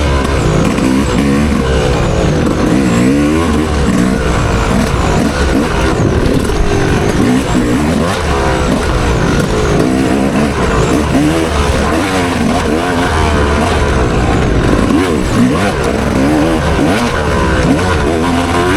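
Dirt bike engine revving hard, its pitch climbing and dropping off again and again, with a steady rushing noise under it.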